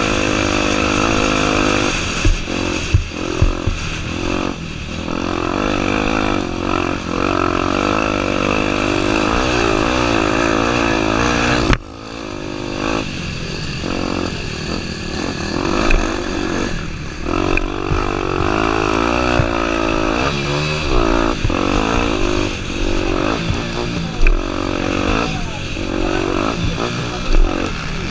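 Honda Tornado 250's single-cylinder four-stroke engine revving up and down as the dirt bike is ridden over rough ground, with scattered knocks. There is a sudden break about twelve seconds in, after which the engine carries on.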